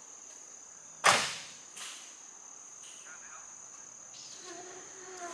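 A steady high-pitched insect drone, with one sharp, loud crack about a second in that dies away quickly, followed by a fainter crack. A low steady hum comes in near the end.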